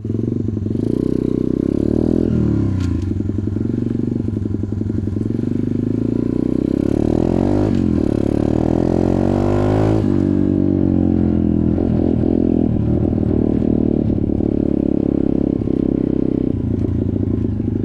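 Off-road motorcycle engine running as the bike is ridden along a trail; the revs climb from about seven seconds in and fall away sharply at about ten seconds, then it runs on at a lower, uneven pace.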